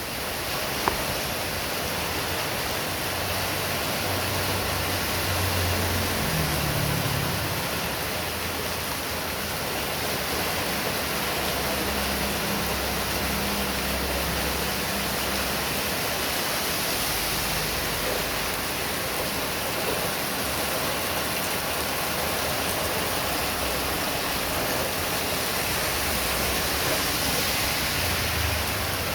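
Heavy rain falling steadily, a dense even hiss. Low rumbles rise and fade a few times, and there is a single sharp tick about a second in.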